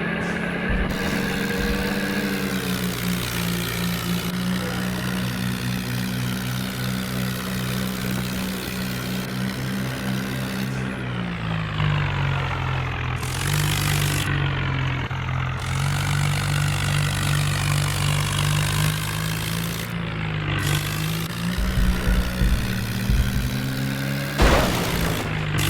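Heavy diesel engine running steadily under load, its revs shifting a couple of times.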